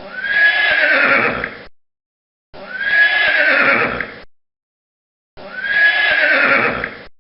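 A horse whinnying: the same call of under two seconds is played three times, with silence between.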